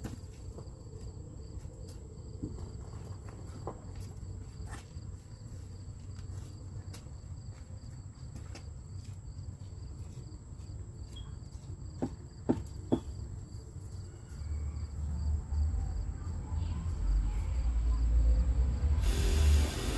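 Crickets chirping steadily, with a few sharp knocks about twelve seconds in. Near the end a low rumble builds, and a loud rushing noise cuts in suddenly just before the end.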